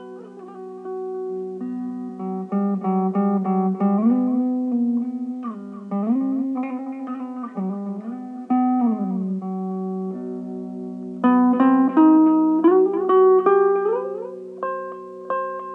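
Electric mandolin playing an instrumental tune: plucked notes that slide in pitch over held low notes, with quicker, repeated picking in the last few seconds.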